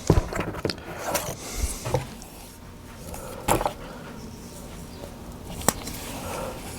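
Handling of small parts and tools on a work surface: a few scattered light clicks and knocks, with faint rubbing between them.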